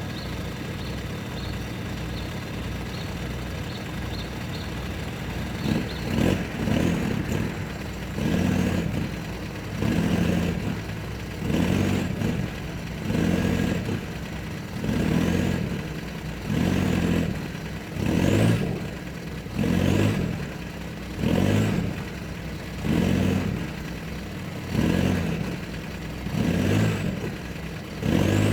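Mini truck's small engine idling, then from about six seconds in revved in short, regular surges roughly every one and a half seconds as the truck tugs again and again on a tow strap to rock a rooted buckthorn loose.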